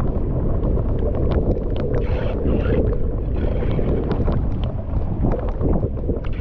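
Floodwater rushing through a freshly cleared drain or dam opening, a steady low roar with scattered splashes and clicks.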